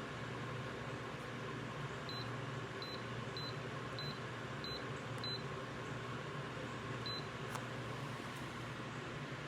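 Steady hum and hiss of a running ultrasonic cool-mist humidifier, with a low drone under it. Short, faint, high beeps come at irregular intervals about every half second to a second.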